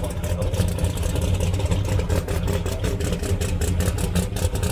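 Drag racing car engine running at a rough, choppy idle, with an uneven beat and no clear build in revs.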